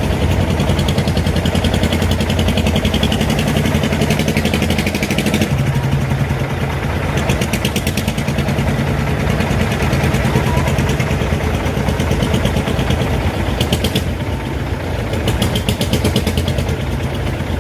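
Crane truck's engine running steadily with a rapid even pulsing, its note shifting slightly about five and a half seconds in.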